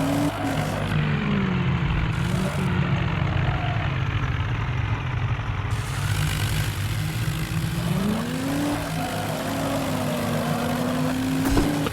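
Mahindra tractor diesel engine running hard under a towing load. Its engine speed sags about half a second in, holds low, then climbs back up near the end.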